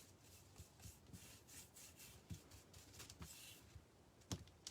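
Faint, irregular rubbing strokes as burnt umber stain is worked over a small wooden craft base, with a sharper tap near the end.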